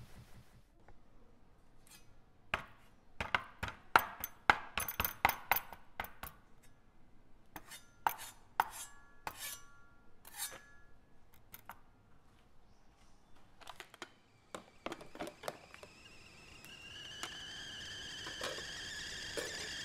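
Spoons clinking and knocking against pots and dishes in a run of sharp strikes, a few of them ringing briefly. A steady high-pitched buzz sets in near the end.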